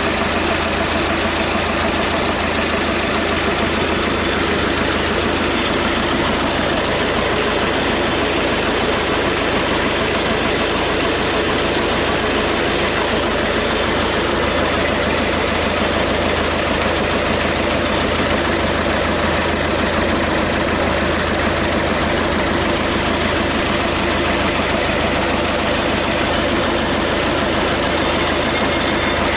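Hyundai D4BH 2.5-litre four-cylinder diesel with an electronically controlled injection pump, running out of the vehicle and idling steadily.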